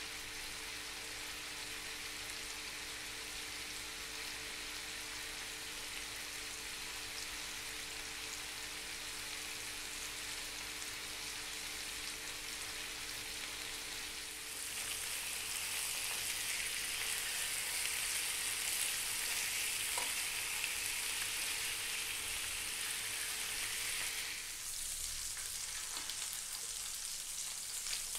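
Bone-in chicken thighs sizzling as they sear in a nonstick grill pan, a steady frying hiss. It grows louder for about ten seconds in the middle, then eases back, with a faint steady hum underneath.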